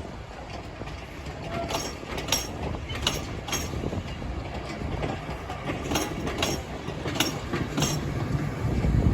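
Train hauled by Class 37 diesel locomotives running at speed: wheels clicking irregularly over rail joints above a steady low rumble, which swells louder near the end.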